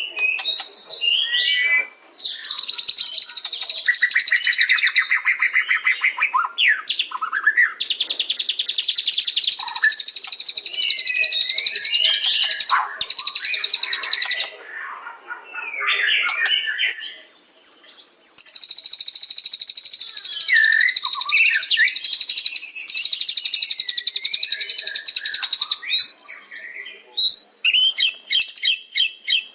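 White-rumped shama (murai batu) singing: long, very fast high-pitched trills lasting several seconds each, broken by short whistled phrases and quick chips.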